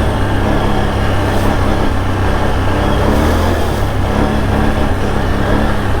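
Can-Am Outlander ATV engine running steadily, with a low hum and a wash of mechanical noise.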